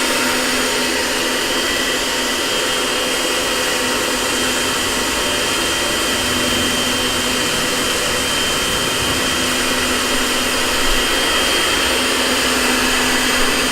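Electric pressure washer running steadily with a high motor whine and the hiss of its spray, jetting a pre-wash onto the car.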